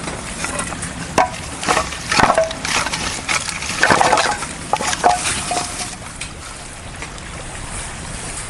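A newly lit campfire of kindling, with sharp snaps, knocks and rustling of sticks being handled and laid on it through the first five seconds, then a steadier faint crackle.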